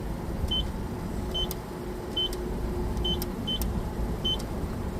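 Car wash entry keypad beeping as a six-digit code is punched in: six short high-pitched beeps, each with a click of the key press, at an uneven pace over a low steady rumble.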